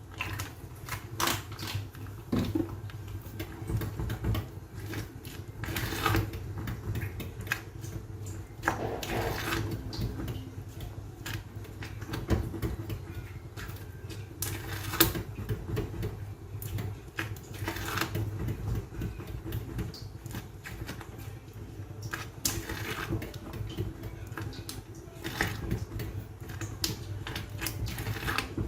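A spoon scraping and knocking against a pot as thick canjica (corn pudding) is stirred, in irregular strokes about every second. A steady low hum runs underneath.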